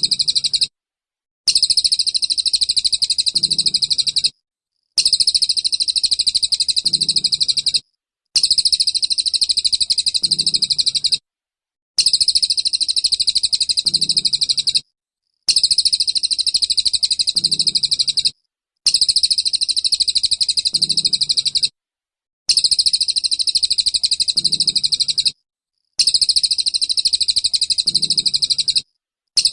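Songbird singing a fast, high-pitched 'tembakan' burst of rapid trilling, played as a looped recording: the same phrase of about three seconds repeats every three and a half seconds or so with short silences between.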